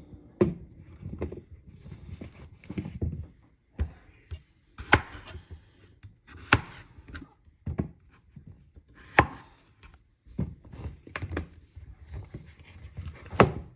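Kitchen knife cutting potatoes on a cutting board: irregular chops, with several sharp knocks of the blade hitting the board.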